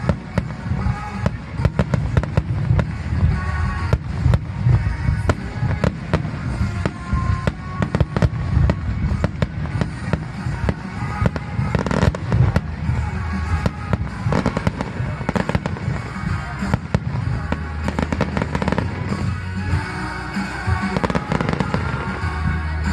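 Fireworks bursting and crackling in rapid, irregular succession, with music playing underneath.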